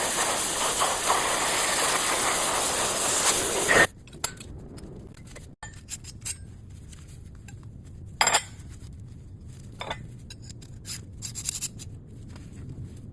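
A cutting torch hisses steadily while cutting sheet metal along a circle-cutting guide, then stops abruptly about four seconds in. After that come light metallic clinks and taps as the metal and tool are handled.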